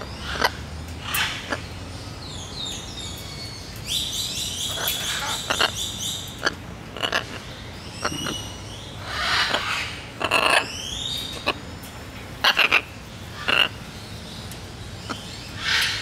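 Birds calling: clusters of quick rising and falling chirps and whistles, mixed with short harsh squawks and sharp clicks.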